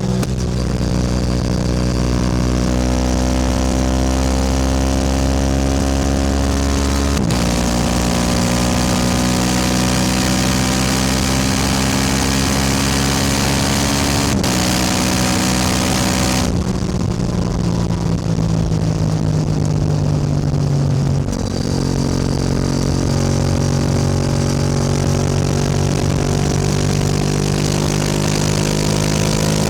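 Yamaha R7 motorcycle engine running under way, the note steady between gear changes about seven and fourteen seconds in. From about halfway the throttle is eased and the revs fall off for several seconds, then the note settles steady again.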